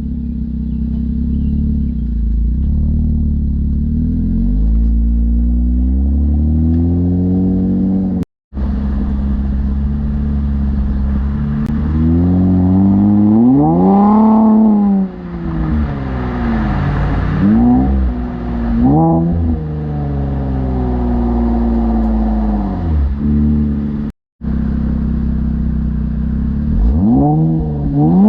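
Infiniti Q50 Red Sport 400's twin-turbo 3.0-litre V6, heard through a Motordyne cat-back exhaust and AMS lower downpipes. It runs with a steady low drone, then is revved: one long rev rising and falling about halfway through, followed by a few quick blips and more near the end.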